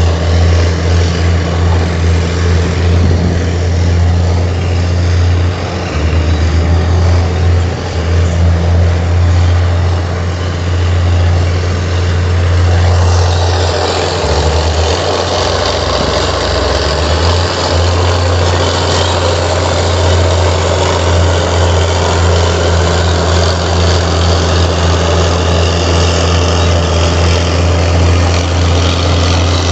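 Heavy diesel engine of a Komatsu bulldozer running steadily with a deep low note. About halfway through the note wavers briefly and the sound turns harsher and busier.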